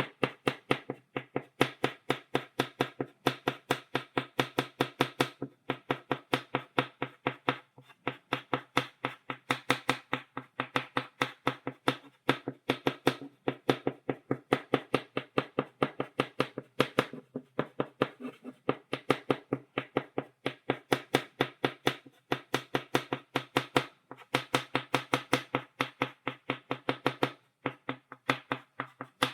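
Chalk tapped rapidly against a blackboard to stipple dots: a quick run of sharp taps, about five or six a second, broken by short pauses every few seconds.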